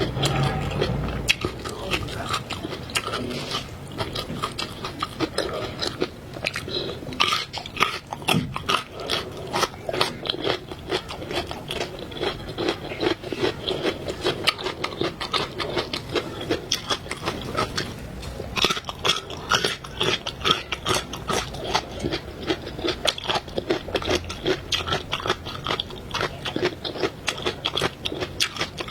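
Close-miked eating of seafood: continuous biting and chewing with dense, rapid crunching and wet clicking.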